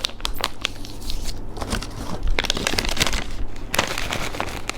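A small plastic snack packet being handled, crinkling with irregular crackles and clicks.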